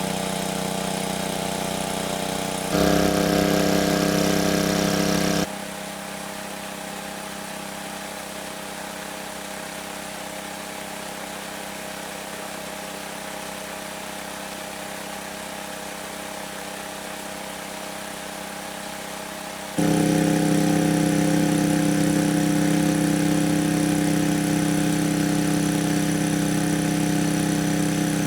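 A small engine running at a steady speed without revving. It gets abruptly louder about three seconds in, drops sharply a couple of seconds later and jumps back up near the end.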